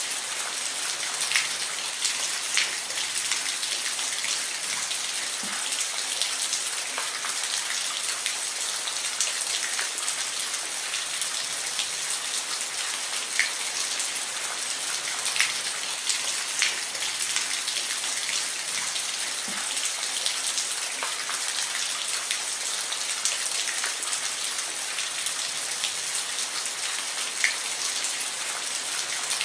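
Steady rainfall, an even hiss of rain with individual louder drops pattering on a surface every second or so.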